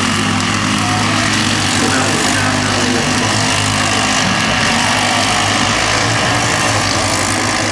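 Small engines running steadily at idle, a continuous low hum with no revving.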